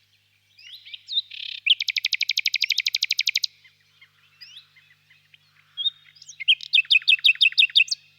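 Nightingale singing: a fast run of rapidly repeated notes, about a dozen a second, lasting nearly two seconds, then after a pause with softer scattered notes, a second phrase of slower repeated notes near the end.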